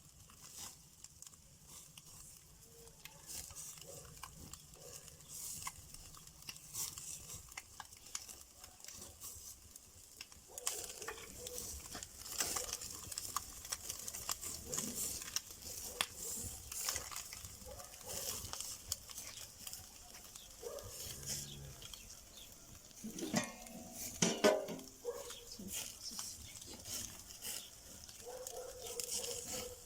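Irregular clicking and crackling from cooking over a wood fire: the fire crackling, with vegetables and utensils being handled. The clicks grow denser about a third of the way in, and a short pitched sound comes about three-quarters through.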